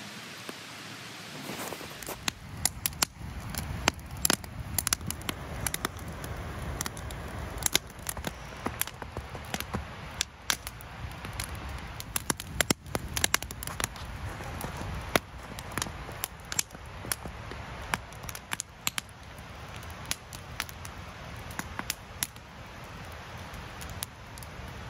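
Wood campfire crackling and popping, with sharp irregular snaps several times a second over a steady low rush.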